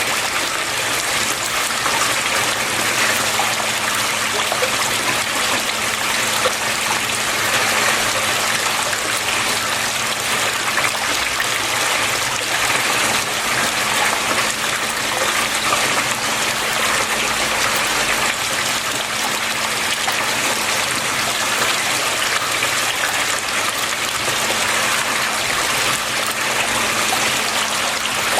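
Water flowing and splashing steadily, an even rushing trickle with no breaks, over a faint steady low hum.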